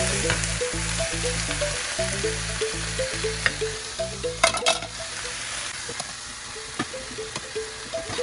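Sliced onions sizzling as they fry in a pan, with a steady hiss and spoon stirring, and a quick cluster of utensil clicks against the cookware about four and a half seconds in.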